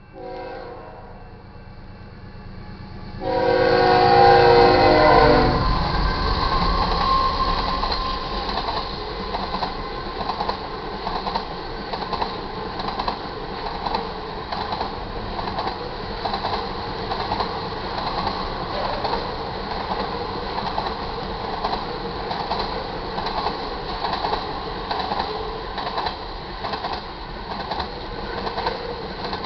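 A freight locomotive horn blows a short chord right at the start, then a long loud chord about three seconds in as the train reaches the crossing. After that the crude oil train's tank cars roll past with a steady rumble and a regular clacking of wheels over the rail joints.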